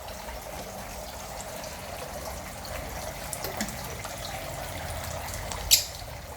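Water trickling steadily into an aviary pond, with small splashes and ticks and one sharp click near the end.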